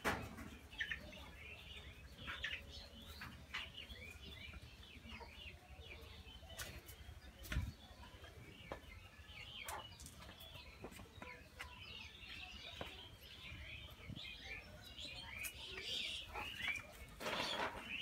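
Many small birds chirping in quick, short calls in the background, with scattered clicks and one dull thump about seven and a half seconds in.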